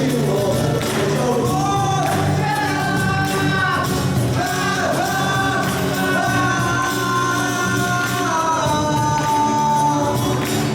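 A live rock band playing with a singer holding long sung notes, the last one held out before the song ends.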